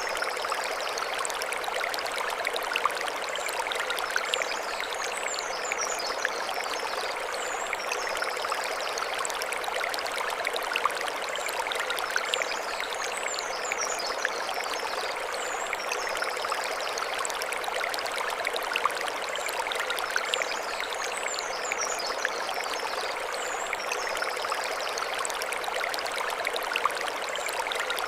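Mountain stream running steadily over stones, an even rushing of water, with faint high chirping now and then.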